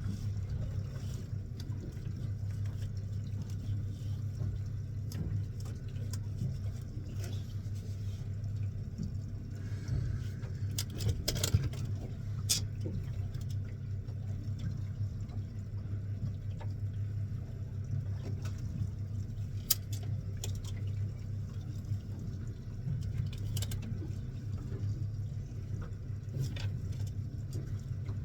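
Fishing boat's engine running with a steady low hum, with a few sharp clicks and knocks on deck now and then.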